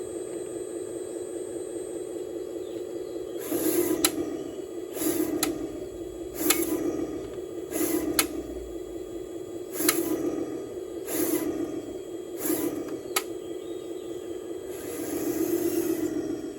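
Radio-controlled Cat excavator's motor whining steadily, surging louder in repeated spells from a few seconds in as the machine works, with sharp clicks at each surge.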